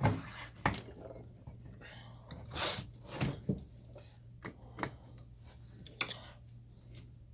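Hand tools and parts knocking and clinking against the metal chassis of a Leslie 122 amplifier: about eight scattered sharp knocks over several seconds, over a steady low hum.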